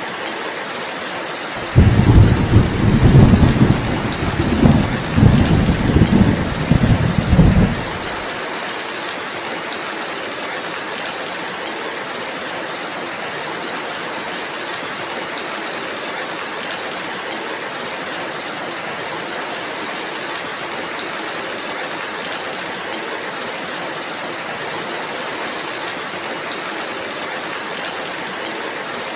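Steady rainfall hissing throughout, with a roll of thunder about two seconds in: a loud low rumble in several surges over some six seconds that cuts off abruptly.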